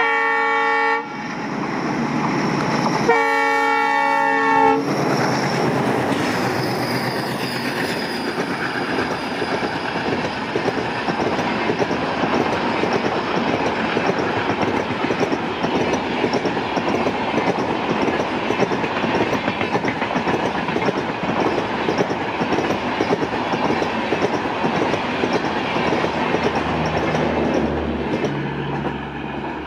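An ALCo WDM-3D diesel locomotive's horn blows twice: one blast ends about a second in, and a second sounds about three seconds in for about a second and a half. Then the train runs past with a steady rattle and the clickety-clack of wheels over rail joints, which fades near the end into a low steady hum.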